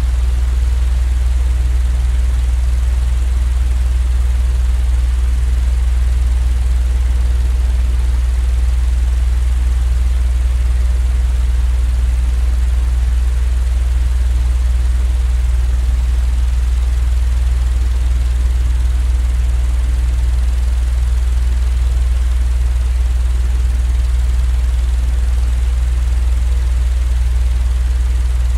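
Steady, unchanging low mechanical hum with a faint hiss above it, a continuous sleep-noise drone.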